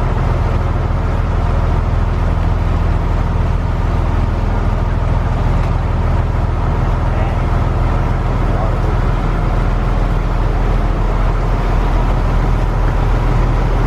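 Boat engine running steadily as a low drone, with a constant rushing noise over it.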